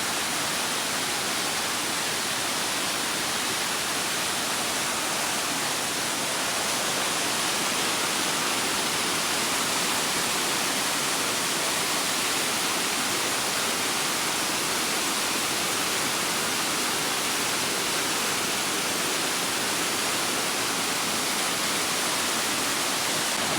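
Steady rushing water: an even, unbroken hiss with no breaks or changes.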